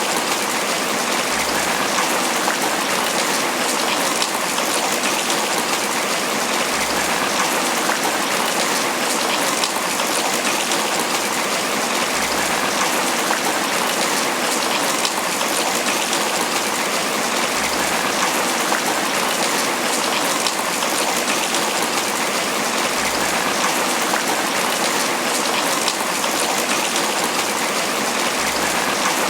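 Steady tropical rain falling on banana leaves: an even, unbroken wash of drops striking the broad leaves.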